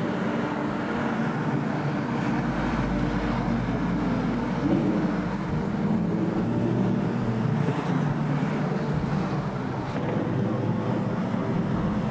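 A car driving at a steady pace: a continuous engine drone and road noise with no sharp revs or pops.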